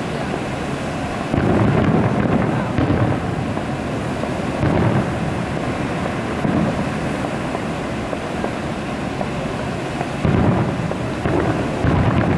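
Distant aerial fireworks shells bursting, heard as low, rumbling booms that come irregularly, several seconds apart. The longest comes about a second and a half in, and a cluster follows near the end, over a steady background hiss.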